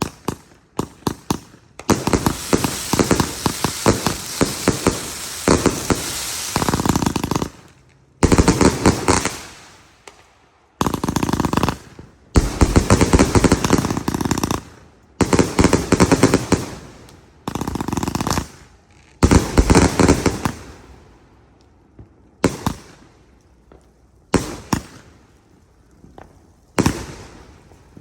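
A 300-shot firework cake firing: rapid volleys of sharp cracking bangs in bursts of one to three seconds with short gaps between, thinning to scattered single bangs in the last few seconds.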